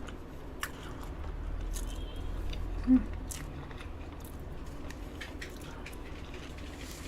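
A person chewing soft cream-layered crepe cake, with scattered faint wet mouth clicks and smacks, and a brief hum about three seconds in.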